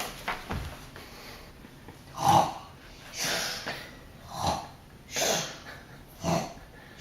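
A child's pretend snoring: three rough snores on the breath in, about two seconds apart, each followed by a breathy blowing out.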